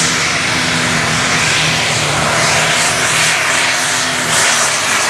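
John Deere 7920 diesel super stock pulling tractor running flat out under heavy load while pulling the sled: a loud, steady engine sound.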